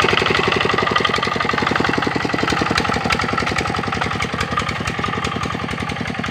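Kubota RD65 single-cylinder diesel engine on a two-wheel hand tractor running steadily, a rapid, even chug of firing strokes.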